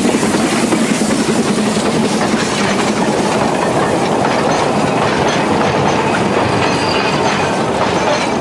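Wagons of a narrow-gauge C2 steam locomotive's coal train rolling past close by, the wheels clattering steadily over the rail joints; the locomotive's exhaust beat fades in the first second or so.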